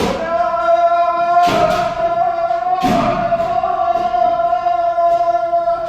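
Kendo practitioners' kiai: one long, steady, sustained shout held for several seconds. It is punctuated by sharp impacts from stamping footwork and head strikes, about three of them, at the start, about one and a half seconds in and near three seconds.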